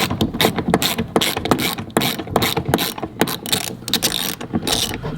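Hand ratchet wrench clicking in quick, irregular runs while a seat bolt is turned out by hand.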